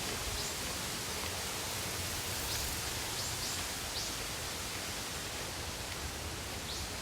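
Steady rush of flowing water, an even hiss with no let-up. A few short, high chirps sound over it, about six in all.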